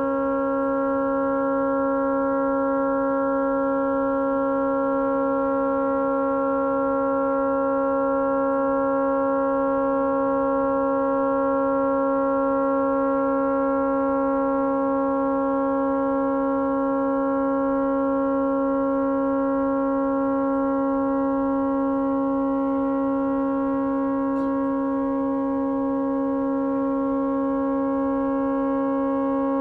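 A tugboat's horn stuck on, sounding one continuous unbroken chord at a steady pitch and level: the horn has malfunctioned and cannot be shut off.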